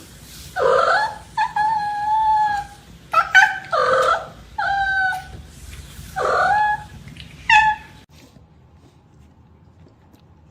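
A pet's high-pitched whining cries, about seven in a row, each bending up and then down in pitch, some short and one drawn out.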